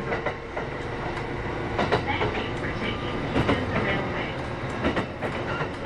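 Interior running sound of a Kintetsu 8810-series electric train car at speed: steady rumble from the wheels and running gear, with a faint steady tone and frequent short clicks and clacks from the track.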